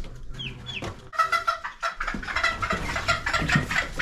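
Young chickens, nearly seven weeks old, giving a few high falling peeps, then from about a second in a louder, dense run of squawks and clucks.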